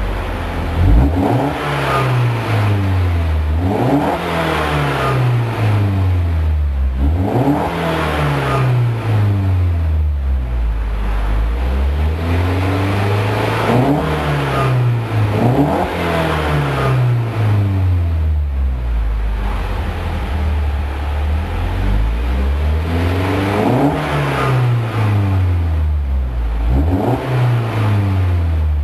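Car exhaust from a stationary car as the engine is blipped repeatedly from idle: the note rises and falls about every two to four seconds, an exhaust sound test.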